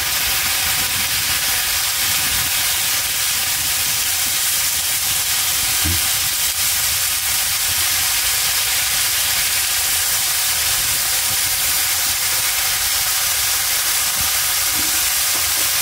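Salmon pieces frying in hot oil, a steady sizzling hiss.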